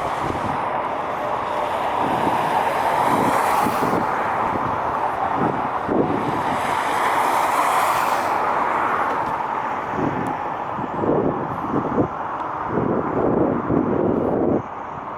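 Jet airliner's engines passing, a steady rushing roar that swells and then fades, with wind buffeting the microphone in gusts that grow stronger toward the end.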